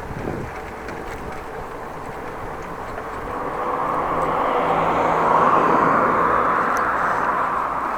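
A motor vehicle passing close by outdoors, its noise swelling to a peak about five to six seconds in and then easing off, with a faint steady low hum while it is nearest.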